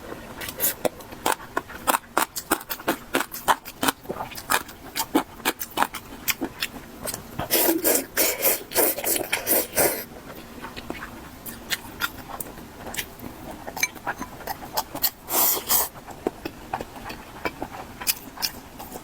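Close-miked eating sounds of a mala xiang guo spicy stir-fry: irregular chewing, crunching and mouth smacks in quick sharp clicks, thinning out about ten seconds in, with a longer, louder burst about fifteen seconds in.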